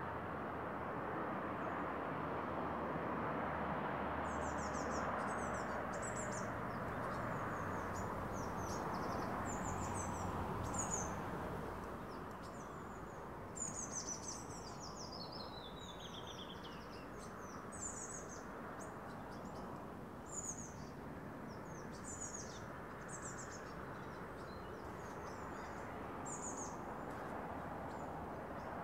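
Steady hum of distant road traffic with small birds chirping over it in short, high, repeated calls; the traffic hum eases off a little about halfway through.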